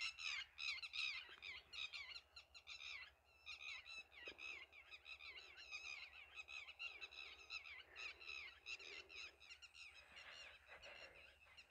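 Birds chirping overhead: many short, quick calls overlapping, faint, thinning out near the end.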